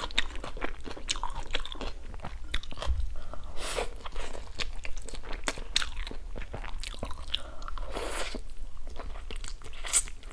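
A person chewing and biting food close to a clip-on microphone: many small wet, crunchy mouth clicks, with a few longer smacking sounds along the way.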